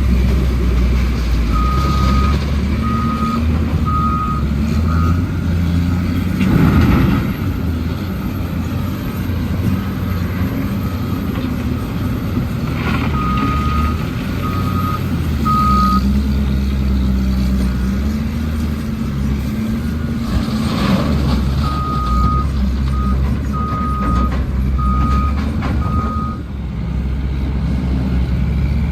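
Heavy truck's diesel engine running while its reversing alarm beeps in three spells of a few beeps each, about one beep a second. Brief bursts of hiss come through twice, about 7 and 21 seconds in.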